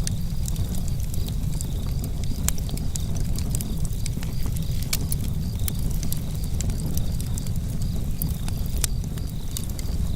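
Wood campfire crackling, with irregular sharp pops over a steady low rumble of burning, and crickets chirping in an even, pulsing high trill behind it.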